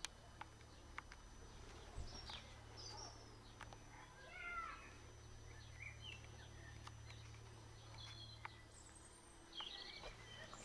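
Near silence: faint, scattered bird chirps over a steady low hum, with a few soft clicks.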